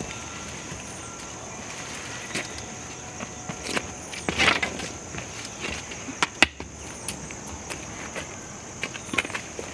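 Scattered clicks, knocks and rustling from hands-on garden work around an old rusted metal trellis, with a louder rustle about four and a half seconds in and a sharp click a little later. Under it runs a steady high insect trill.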